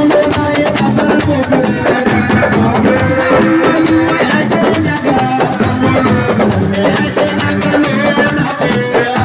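Live assiko band music: a fast, steady percussion groove with drums and a shaker rattle under plucked guitar lines.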